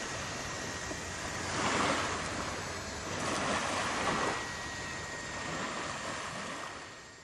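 Rushing, surging noise like water washing, swelling and easing several times, with a faint steady high tone underneath; it fades out near the end.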